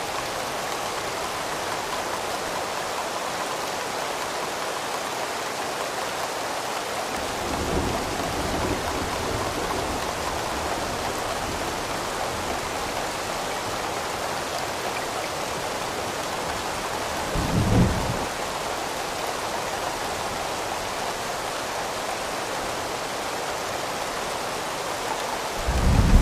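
Steady rain, with low rolls of thunder: a soft, drawn-out one about a third of the way in, a short, louder one about two-thirds in, and another at the very end.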